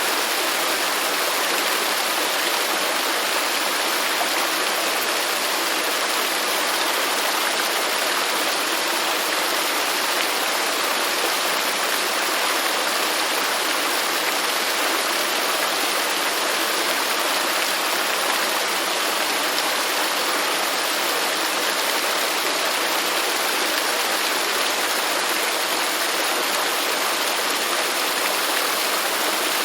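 Waterfall: water falling and rushing in a steady, unbroken hiss, its sound spread evenly from fairly low to very high pitches with no separate splashes standing out.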